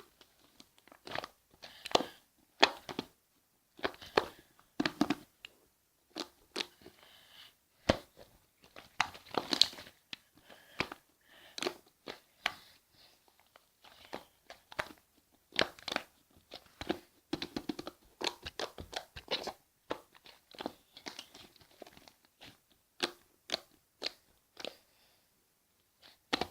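Stiff cloud-type slime with instant snow powder mixed in, being pressed and squished by hand, giving irregular crunching crackles and pops.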